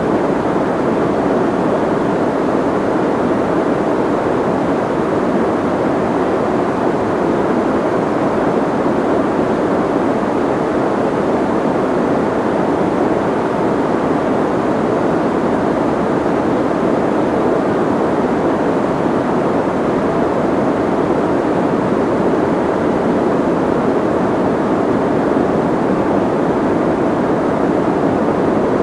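Soft white noise: a steady, muffled hiss with little treble, even in level with no changes or other sounds.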